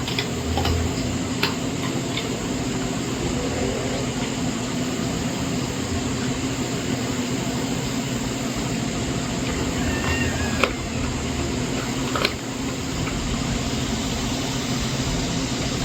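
Steady low hum with a hiss over it, broken by a few sharp clicks, one about ten and a half seconds in and another near twelve seconds.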